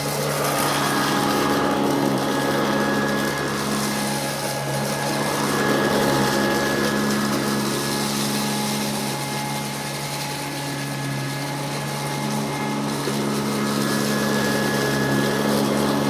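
Vacuum cleaner running steadily with a constant motor hum and a rushing air hiss as it is pushed over a floor scattered with small beads, swelling and easing slightly as it moves.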